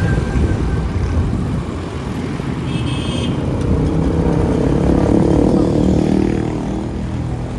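Street traffic heard from a moving motorcycle: engine and traffic noise throughout, with a vehicle's engine swelling louder through the middle and fading, and a brief high tone about three seconds in.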